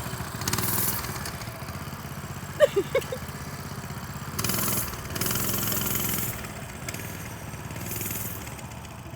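Gas mini bike engine running at low speed as the bike rides off, its note swelling with the throttle about four and a half seconds in and again around five to six seconds. A few short high chirps about two and a half seconds in.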